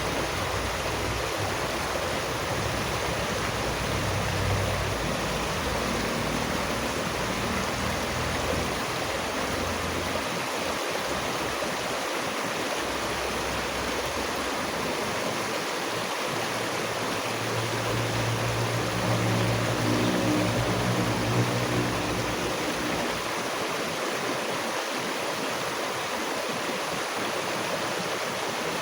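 Steady rushing of stream water. A low hum swells and fades twice, about a quarter of the way in and again past the middle.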